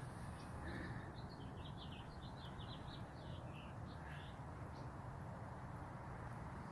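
A bird singing faintly: a quick run of short, high chirps lasting about four seconds, over a steady low background rumble.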